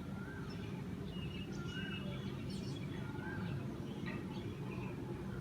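Birds calling outdoors: a short call that rises and falls is repeated about every one and a half seconds, with fainter high chirps among it, over a steady low background hum.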